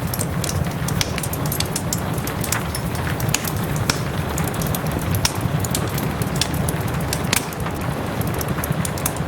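Wood fire in a fireplace crackling, with frequent small sharp pops at irregular intervals, blended with soft steady rain and a low rumble.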